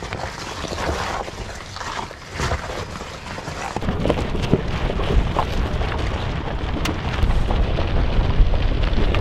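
Gravel and rocks crunching and crackling under the tires of a Rivian R1T electric pickup crawling over a rocky trail, with no engine sound from its quiet electric motors. A low rumble grows in from about four seconds in.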